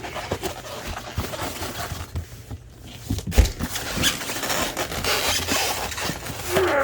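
A cardboard box and its packing being handled and opened: scattered rustling, clicks and knocks, with one heavy thump about three and a half seconds in.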